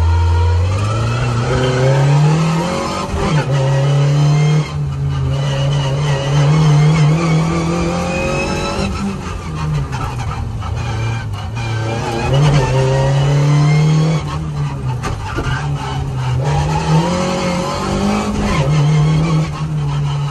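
Skoda 120's rear-mounted four-cylinder engine heard from inside the cabin, driven hard: its pitch climbs under acceleration and falls back again and again as the car works through the course.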